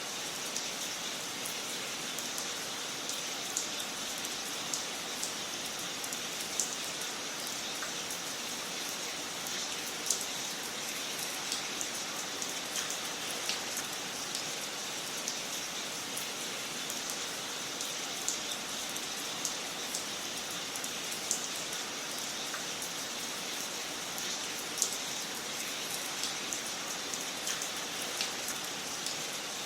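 Wood fire crackling: a steady soft hiss with irregular sharp pops and snaps, a few of them louder than the rest.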